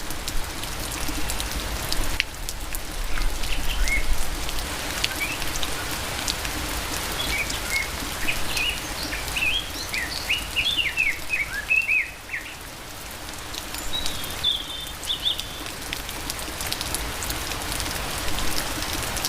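Steady rain falling, with many individual drops ticking close by. A bird chirps in quick short notes through the middle, and briefly again later.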